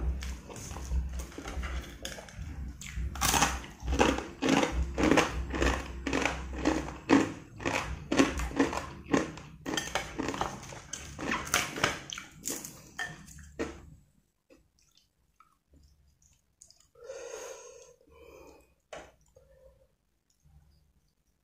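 Close-miked chewing of a mouthful of instant noodles: quick, wet smacking strokes, about two to three a second, that stop about two-thirds of the way through. After that it is mostly quiet, with one short soft sound and a single click.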